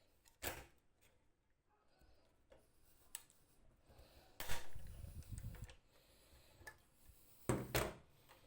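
A few knocks and clacks of parts being handled and set down: a single one about half a second in, a louder one about halfway through followed by about a second of scraping and rustling, and a quick double knock near the end.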